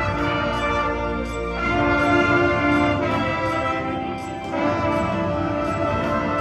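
Wind ensemble playing sustained brass chords that shift every second or two, with light high percussion strokes over them.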